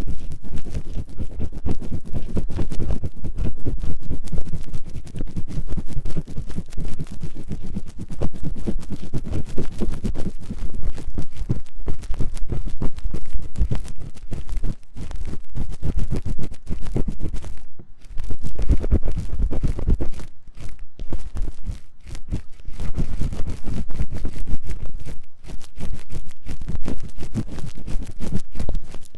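Fast, vigorous ear-cleaning scratching in the ears of a 3Dio binaural microphone: a dense, continuous run of rapid scratchy strokes, with a few brief pauses in the second half.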